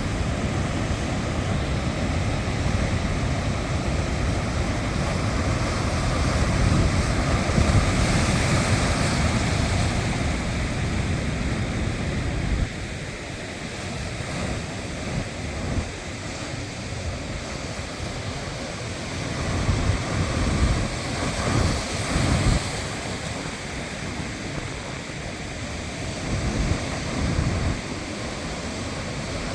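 Rough sea waves surging and breaking, with wind buffeting the microphone in low rumbling gusts. The sound is louder at first and drops suddenly about twelve seconds in.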